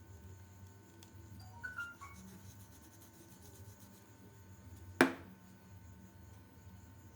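A quick run of a few short electronic beeps at different pitches, then a single sharp knock about five seconds in, the loudest sound here.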